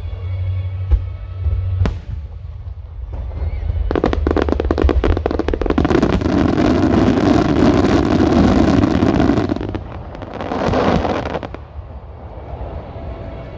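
A rapid-fire starmine fireworks barrage. Deep booms of bursting shells and a sharp crack come first; dense, rapid crackling starts about four seconds in and lasts some six seconds, and a shorter crackling burst follows a little later.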